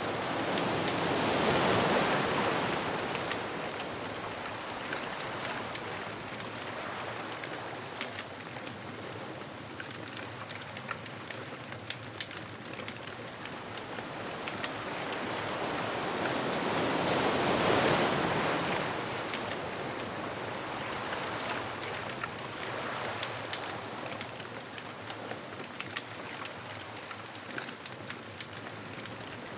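Ocean waves breaking on a beach: two waves swell up and crash, about two seconds in and again a little past halfway, with a steady wash of surf between. Small sharp crackles of the bonfire are scattered throughout.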